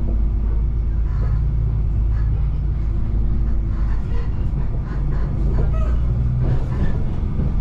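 Moving passenger train running with a steady low rumble.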